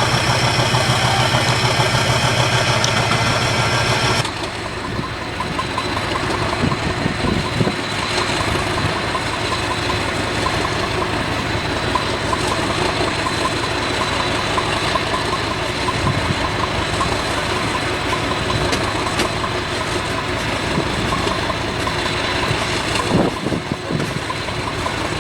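Class 50 diesel locomotive's English Electric 16-cylinder engine running after a cold start. A steady high-pitched whine over the engine cuts off abruptly about four seconds in. The engine then settles to an even rumble with irregular knocking and one louder knock near the end.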